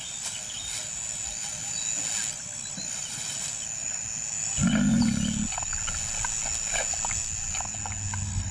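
A lion calling once about halfway through: one short, low call lasting under a second. A low hum begins near the end.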